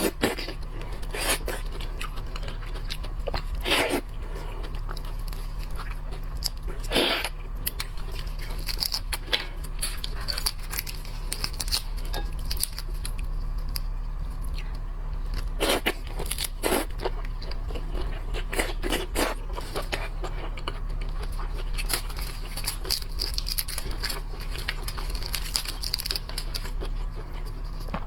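Shellfish shells cracking and tearing as they are pulled apart, with close-up chewing: irregular sharp cracks, a few of them louder.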